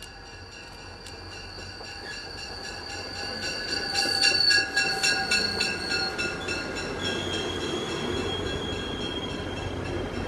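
Commuter rail train rolling into the station and braking: steady high-pitched squeal from wheels and brakes over a low rumble, with the warning bell ringing in quick repeated strikes. It grows louder as the train draws near and peaks about four seconds in.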